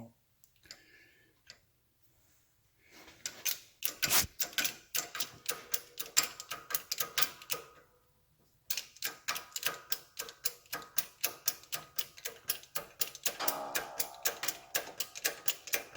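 Rapid, even, light metal taps, about five a second, driving a new rubber oil seal into the engine case to seat it flush. The tapping stops briefly about eight seconds in, then resumes.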